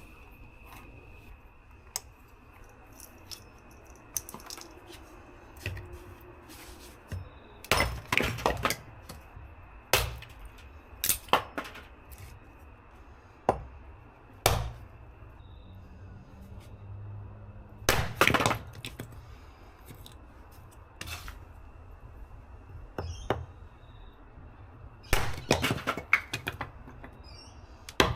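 Dry wood cracking and snapping: sharp cracks come singly and in quick clusters of several snaps, loudest around a third of the way in, near two-thirds, and close to the end.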